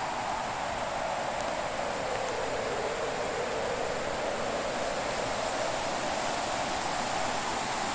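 Wood-fire ambience: a steady rushing hiss whose pitch sinks slowly and rises again over several seconds, with a few faint sharp crackles from the burning wood.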